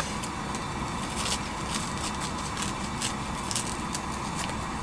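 Fire crackling, with scattered sharp crackles over a steady low rumble.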